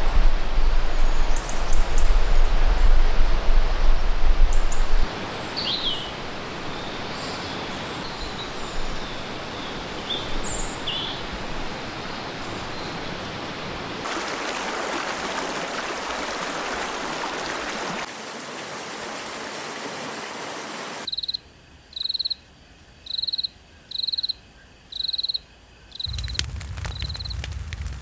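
Forest ambience in several short segments joined by abrupt cuts: a steady rushing noise, heavy with low rumble in the first five seconds, with small birds chirping over it. Near the end it turns into choppy stop-start bursts with a short, high, evenly repeated call about twice a second.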